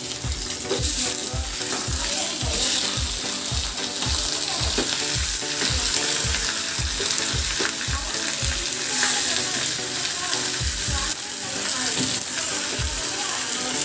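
Hot oil sizzling in a kadai of frying onions, green chillies and potatoes as raw chicken pieces are dropped in and stirred with a steel spatula. A low regular thump runs underneath at about three a second for much of the time, pausing briefly near the middle.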